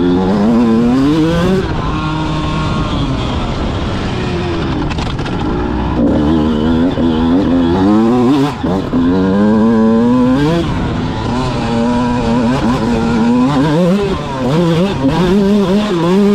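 Motocross bike engine revving hard, its pitch climbing and dropping again and again as the rider accelerates and shifts or rolls off between corners.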